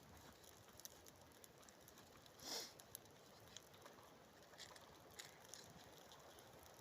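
Faint crackling of a small campfire of birch bark and kindling just catching: sparse small ticks and pops, with one louder pop about two and a half seconds in.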